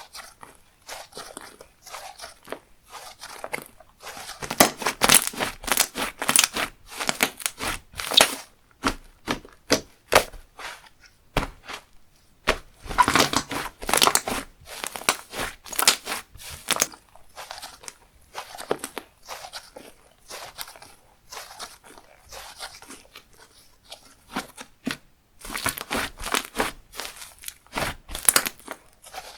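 Slime being played with by hand: dense runs of crackling, clicking pops as it is pressed, stretched and folded, loudest in three spells about 5, 13 and 26 seconds in.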